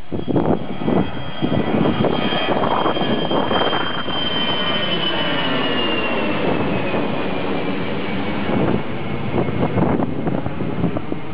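Jet airliner's engines at takeoff thrust passing close overhead: a loud, steady roar with a high whine that slides slowly down in pitch as the plane goes by.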